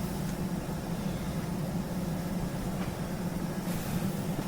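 Portable air conditioner running steadily, a constant low hum with the rush of its fan.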